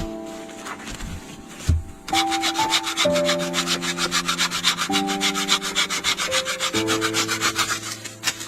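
Quick, even back-and-forth strokes of a hand tool rubbing or scraping on wood, about five or six a second, starting about two seconds in and stopping just before the end, over soft piano music.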